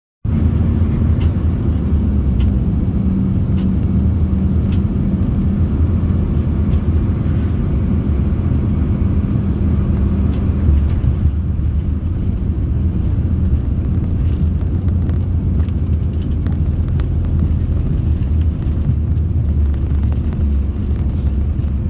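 Jet aircraft landing: a steady, deep rumble that neither rises nor falls.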